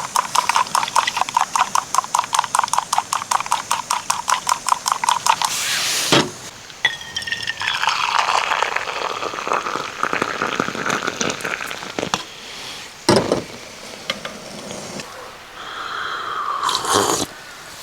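Coffee being made in a mug: a quick, steady clinking, about six or seven strokes a second for about five seconds, like a spoon beating coffee against the cup. Then a knock, and liquid is poured in for several seconds.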